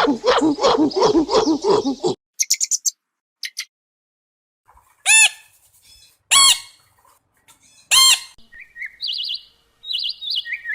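A rapid run of pitched animal calls cuts off about two seconds in. Then come a few faint high chirps, three loud arched bird calls about a second and a half apart, and a string of short stepped chirps near the end.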